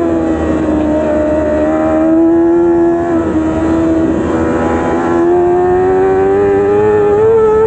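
Yamaha R6 inline-four engine at high revs. The pitch drops over the first second, holds fairly steady through the middle, then climbs steadily as the bike accelerates near the end.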